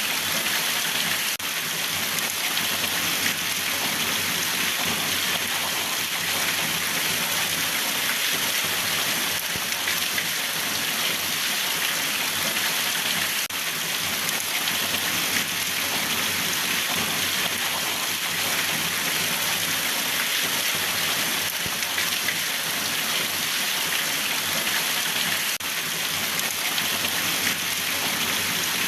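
Steady heavy rain falling on a surface: a dense, even hiss of drops.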